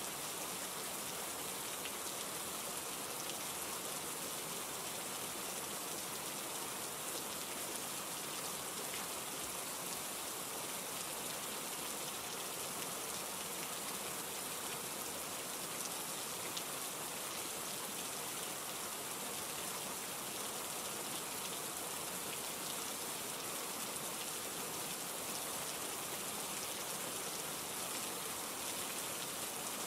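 Steady rain falling, an even hiss with fine drop patter that doesn't change.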